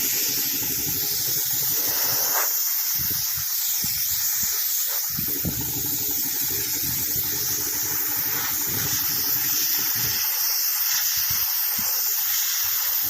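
Compressed air from an air compressor's blow hose, a continuous loud hiss, with the compressor's low rumble underneath that comes and goes.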